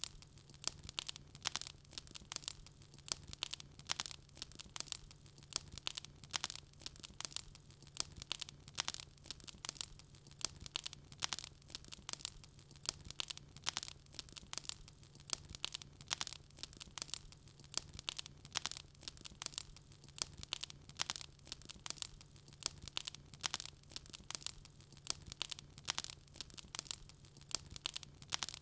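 Wood fire burning in a fireplace, crackling and popping: dense, irregular sharp snaps several times a second, over a faint steady low hum.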